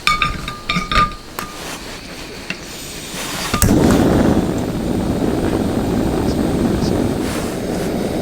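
Several light clinks and knocks of small hard objects, some ringing briefly. Then a steady rushing noise starts suddenly, about three and a half seconds in, and runs on evenly.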